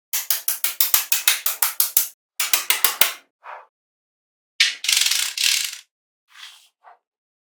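Rapid ratchet-like clicking, about six sharp clicks a second for two seconds, then a shorter run, and a denser rattling burst about five seconds in.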